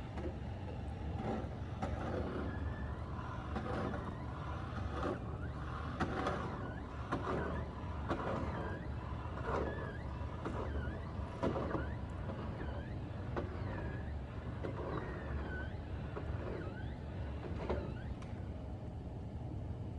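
Snow shovel scraping and pushing snow across a driveway in repeated strokes, roughly one a second, over a steady low rumble.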